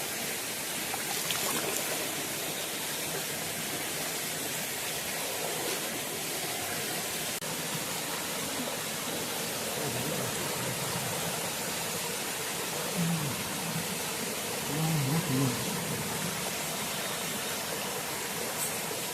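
Steady rush of flowing stream water, with brief faint voices about two-thirds of the way in.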